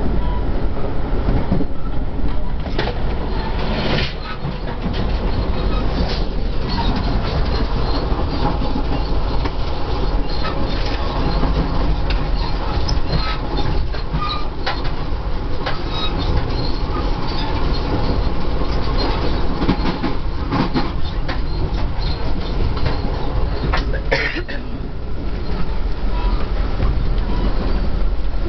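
Inside a moving passenger train carriage: the steady low rumble and running noise of the train on the rails, with scattered clicks and a few louder knocks throughout.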